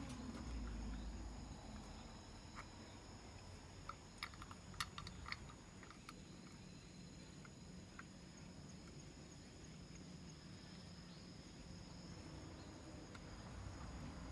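Faint steady high-pitched insect trilling at two pitches, with a few light clicks and taps about four to five seconds in.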